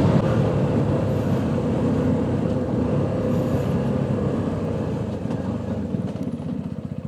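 Motorcycle engine running as the bike slows under hard braking, the revs falling so that the separate firing beats become audible near the end.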